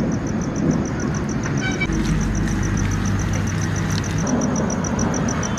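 Road traffic noise with a short horn toot about one and a half seconds in, over a fast, steady, high-pitched ticking.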